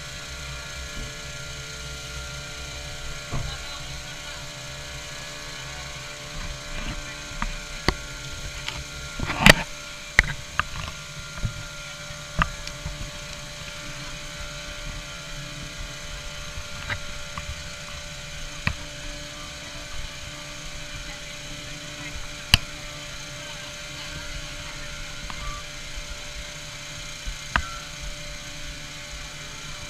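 Steady machine hum with a few fixed tones, broken by scattered sharp clicks and knocks; the loudest knock comes about nine and a half seconds in.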